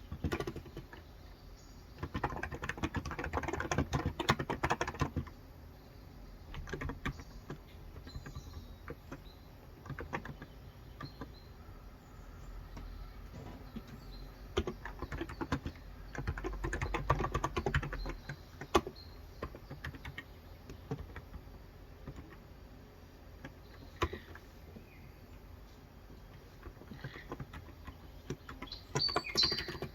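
Typing on a Cox Endeavor electro-capacitive (무접점) 35g tenkeyless keyboard: dense runs of keystrokes in bursts, with scattered single key presses in the pauses between. Faint short bird chirps sound now and then in the background.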